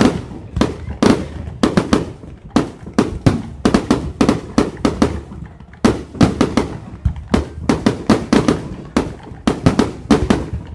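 Fireworks display: a rapid, unbroken run of loud bangs, about three a second, as rockets and shells burst overhead.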